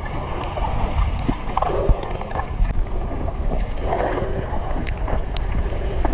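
Wind rumbling on the microphone over water noise from a boat on open water.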